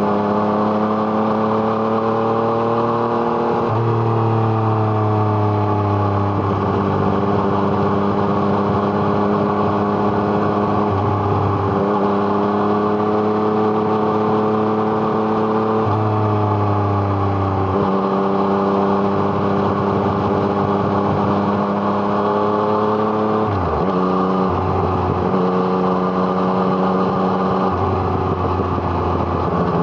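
Yamaha MT-09's three-cylinder engine through an Arrow Thunder exhaust, running under load on a ride. Its pitch climbs slowly and drops sharply a few times, at about 4, 16 and 24 seconds in.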